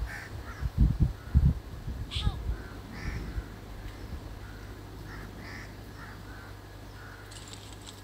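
Short calls from birds, repeated every second or so, over low rumbling thumps in the first few seconds.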